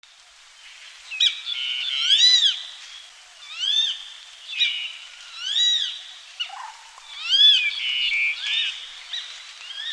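A bird of prey calling: a run of short, high, arched calls that rise and fall in pitch, about one a second, over a steady high-pitched background.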